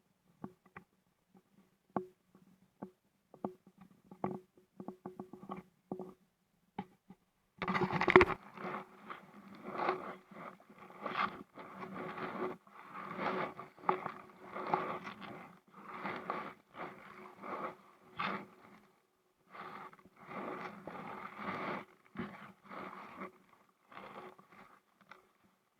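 Close scraping and rubbing, with scattered clicks and knocks for the first several seconds, then near-continuous rubbing in uneven bursts from about eight seconds in.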